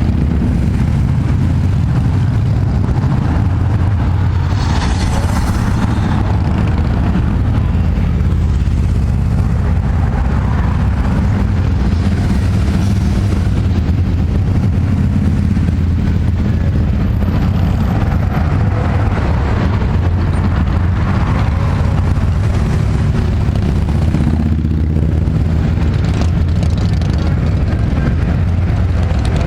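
Steady low engine rumble of motorcycles running nearby, swelling a few times as bikes pass.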